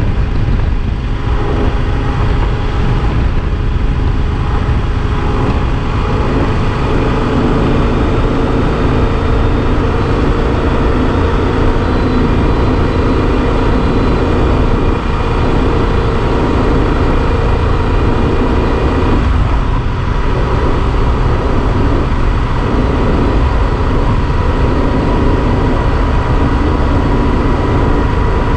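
Yamaha XT1200 Super Ténéré parallel-twin engine running at a steady cruise under heavy wind rumble. The engine note holds steady and shifts once about two-thirds of the way through.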